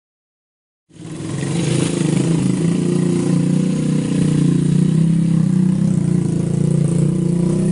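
Motorcycle engine running at a fairly steady note, cutting in abruptly about a second in and holding loud throughout.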